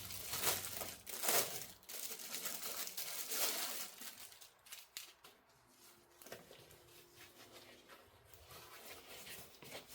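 Packaging in an unboxing kit rustling and crinkling as parts are dug out and handled, loudest in the first four seconds, then quieter scattered rustles and small knocks.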